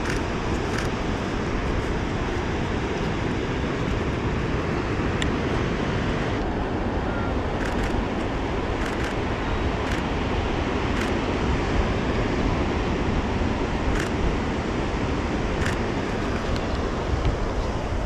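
Steady wind noise on the microphone mixed with beach surf. About eight short, sharp camera-shutter clicks fall every second or two, mostly in the second half.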